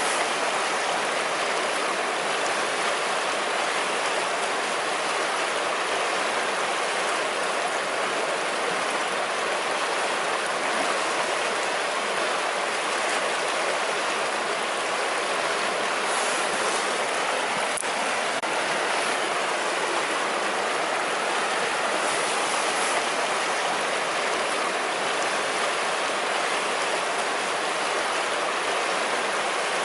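Savinja river flowing: a steady, even rush of water over its bed. There is one faint click about two-thirds of the way through.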